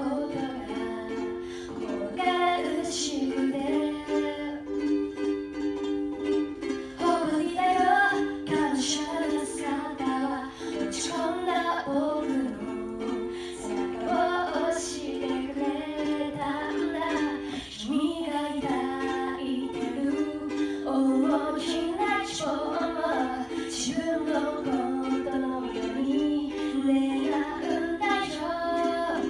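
A woman singing a cheerful pop song to ukulele accompaniment, with a short break in the vocal a few seconds in.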